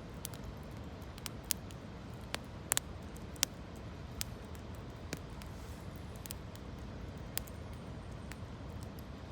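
Campfire of gathered branches crackling: irregular sharp pops and snaps, a few louder ones in the first half, over a steady low rush.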